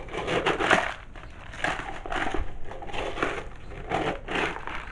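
Dry dog kibble being scooped and poured, a series of short crunching, rattling bursts.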